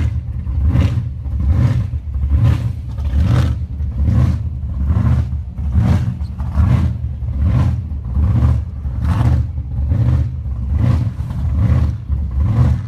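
Supercharged hot-rod V8 running at low speed, a deep rumble with an uneven, loping beat about twice a second, heard from inside the open car.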